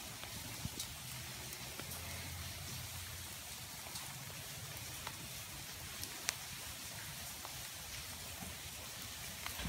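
Steady rain falling, with a sharp tick of a single drop striking close by every second or so.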